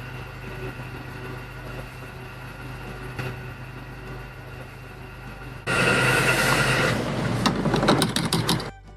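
Small motor running with a steady hum; nearly six seconds in a much louder rattling, grinding noise starts, then cuts off suddenly near the end.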